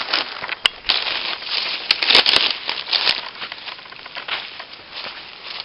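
Irregular rustling and crackling, with a cluster of sharp clicks about two seconds in, the loudest part.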